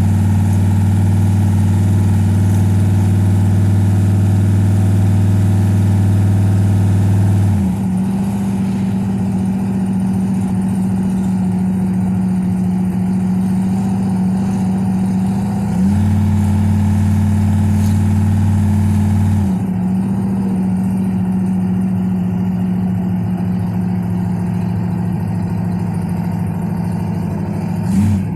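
Car engine running steadily while driving, heard from inside the cabin; its low drone steps louder and quieter a few times.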